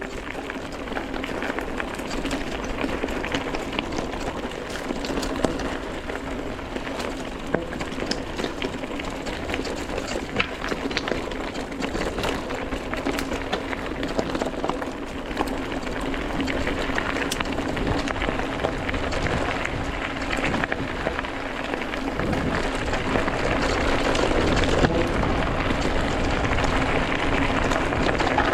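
Mountain bike rolling over a stony road: tyres crunching on rocks and gravel, with many small clicks and rattles and a steady low hum.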